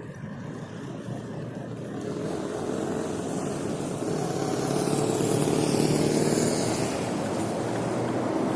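Motor vehicle engine and road noise in city traffic. It builds after about two seconds and is loudest a little past the middle.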